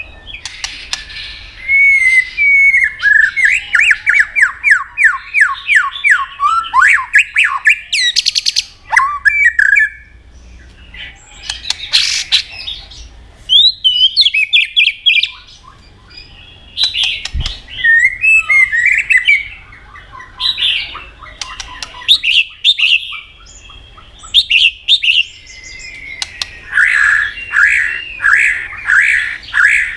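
White-rumped shama singing a varied song. Phrases of rapid whistled glides and fast repeated notes come in bursts with short pauses between them, mixed with a few sharp, harsh notes.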